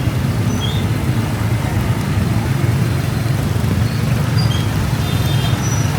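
Steady low rumble of riding a motorbike through traffic: the bike running, with road and wind noise on the camera. A few faint, short, high chirps are scattered through it.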